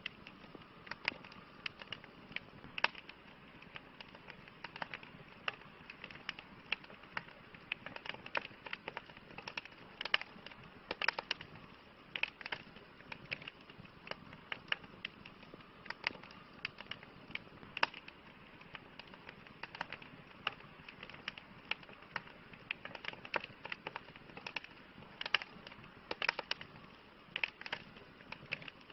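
Campfire crackling: irregular sharp pops and snaps, several a second, over a steady soft hiss of the flames.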